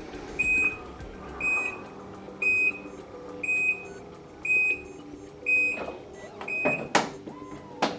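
A car's electronic warning chime beeping steadily, one short high beep about every second, here from the 2014 Nissan Murano. Two sharp clicks come near the end.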